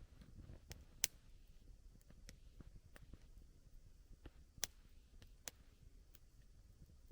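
Wood campfire burning, with scattered sharp crackling pops of the burning wood, the loudest about a second in and another just before five seconds, over a faint low rumble.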